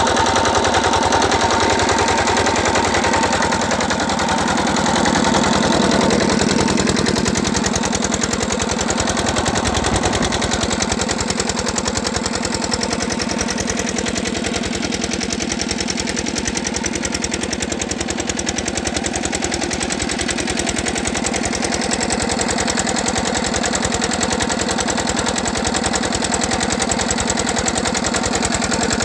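Diesel engine of a farm water pump running steadily, with a fast, even knocking beat.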